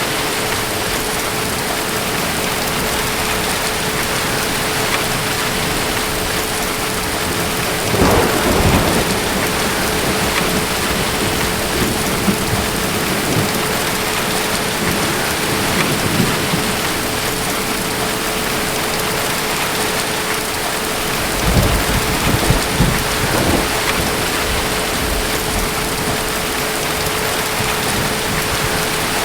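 Steady rain with thunder: a sharp clap rolling off about eight seconds in, and a longer low rumble a little past twenty seconds.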